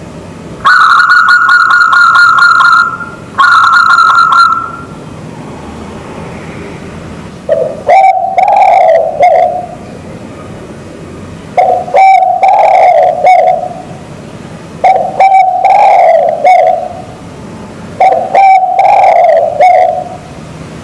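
A zebra dove and a spotted dove cooing in turn. First come two long, rapidly pulsed, higher coos from the zebra dove. Then the spotted dove gives four lower, multi-note coos at regular intervals, each opening with a short note.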